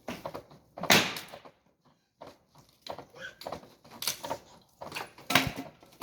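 Wooden knocks and cracks as a dismantled wooden bed is broken up for firewood: several sharp hits, the loudest about a second in, and more near four and five seconds.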